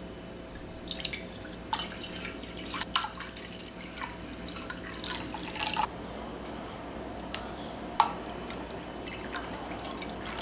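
Water splashing and dripping in a kitchen, with a run of irregular wet clicks and knocks for the first few seconds, then a few isolated drips or taps.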